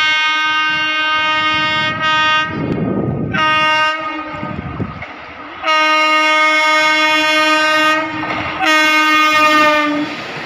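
Indian Railways electric locomotive's horn sounding repeatedly: a long blast, a short one, then two more long blasts. The running noise of the passing train fills the gaps and continues after the last blast.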